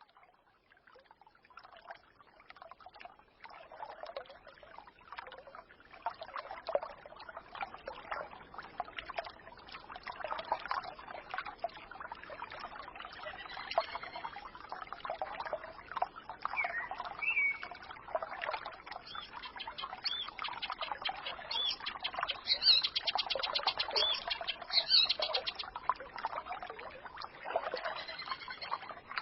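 A small forest stream gurgling and trickling, fading in from silence over the first few seconds, with songbirds chirping over it. A fast, high trill comes about two-thirds of the way through.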